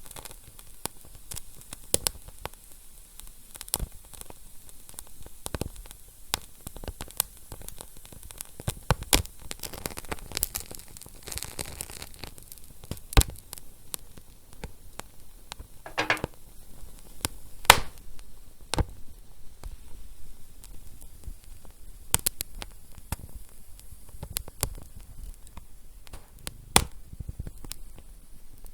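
Wood fire crackling: irregular sharp pops and snaps over a soft, steady hiss, with a few louder pops standing out.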